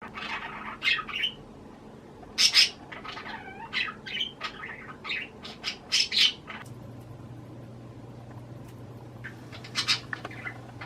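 Pet budgerigar chirping and chattering in a run of short, sharp calls, some bending in pitch, with the loudest about two and a half and six seconds in. A faint steady low hum comes in a little past halfway.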